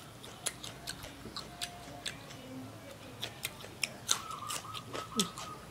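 Close-up chewing of crispy fried mole crickets: sharp, irregular crunches several times a second. A cluster of louder crunches about four seconds in comes as a raw red chilli is bitten.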